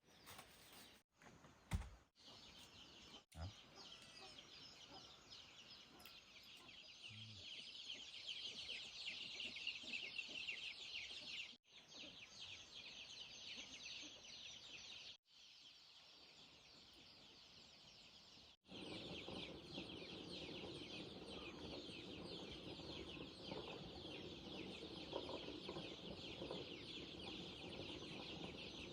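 Faint outdoor background with chickens clucking, broken off abruptly several times.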